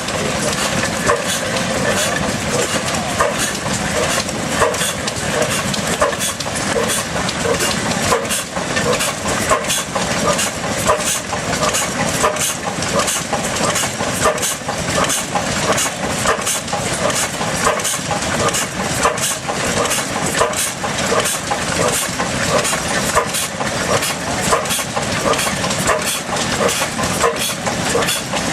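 Austral 6 HP stationary engine running steadily while driving an Ajax water pump, with a quick, even rhythm of short knocks over a constant mechanical noise.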